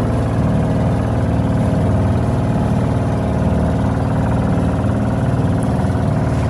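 Engine of a local boat running steadily at a constant pitch.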